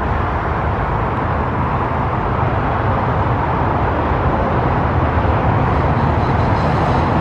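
Steady vehicle rumble with a constant low hum, unbroken throughout.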